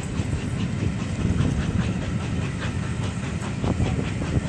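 Passenger coaches of a steam-hauled train rolling past on the track: a steady rumble with the wheels clicking over the rails.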